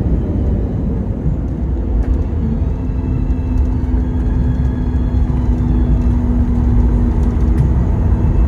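Low rumble of a Boeing 737-8 MAX landing, with a steady hum that comes in about two and a half seconds in.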